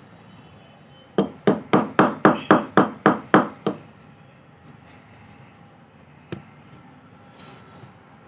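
A clay pot being struck ten times in quick succession, about four blows a second, then one more single knock a few seconds later.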